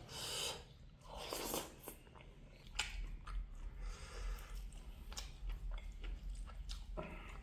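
A person chewing and biting food close to the microphone, pork and mustard greens, with crunchy, wet mouth sounds and a few sharp clicks scattered irregularly.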